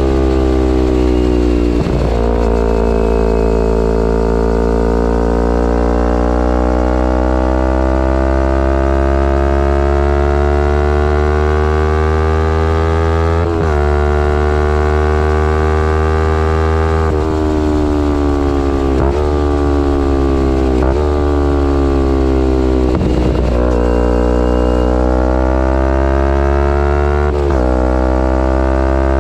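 Kawasaki Ninja 250R's parallel-twin engine through a full Graves race exhaust, pulling under load while riding. Its pitch climbs slowly, then is cut by gear changes several times, with a cluster of quick changes in the middle and another about two-thirds of the way through. A steady deep rumble runs underneath.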